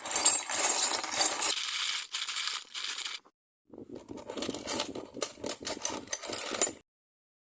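Metal bolts clinking and scraping against each other and a hard surface as they are handled, in two stretches of rapid sharp clicks with a short gap between them.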